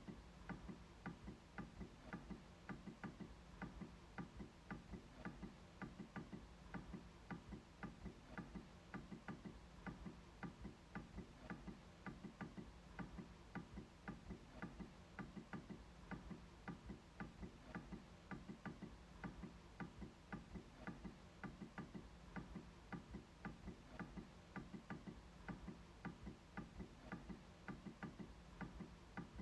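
MacBook trackpad being clicked over and over, faint, sharp clicks at about three a second in an uneven rhythm.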